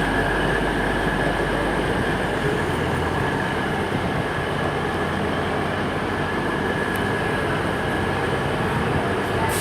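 Class 222 Meridian diesel-electric multiple unit standing at the platform with its engines idling: a steady drone with a thin, high, even whine over it.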